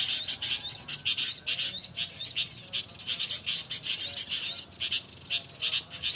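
Small birds chirping continuously, many short high calls repeating several times a second without a break.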